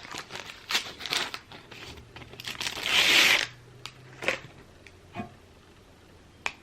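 Paper wrapper being crinkled and torn open around a fast-food corn dog, with one longer, louder tear about three seconds in, then a few single crinkles.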